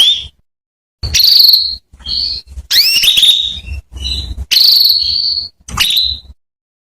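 Female domestic canary calling: a quick series of short chirps, each sweeping sharply upward and some held as a brief high trill. The calls come in irregular bursts separated by short pauses.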